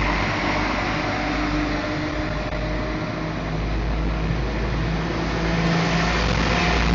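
Two coupled Class 172 Turbostar diesel multiple units pulling away, their underfloor diesel engines running steadily under power. The pitch shifts upward and it grows louder about five seconds in.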